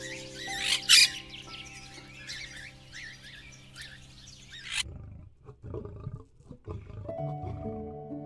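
Gentle background music with held tones throughout. Over it, bird squawks and chirps, the loudest a sharp screech about a second in, stop abruptly a little before halfway; then a lion's low, uneven growls.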